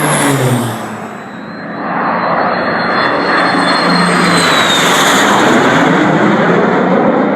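Lockheed P2V-5 Neptune airtanker flying low past, its engines' pitch dropping as it goes by in the first second. About two seconds in, a loud, dense engine noise builds and holds, with a high whine that falls in pitch near the end.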